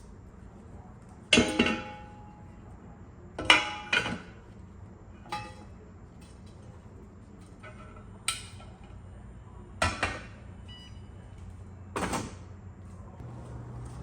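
Dishes and kitchenware being handled: about seven separate clinks and knocks, some with a brief ring, over a low steady hum.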